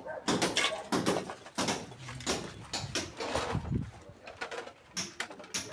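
A series of irregular knocks and clatters, several a second, as from work being done by hand.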